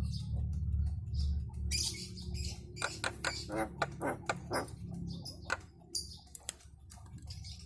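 Javan myna (jalak kebo) giving a quick series of short squawks and clicking notes, over a low steady hum.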